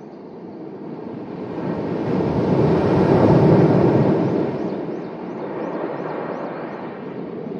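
Sea waves surging onto the shore and washing back: one swell builds over about two seconds, peaks a few seconds in and then eases off.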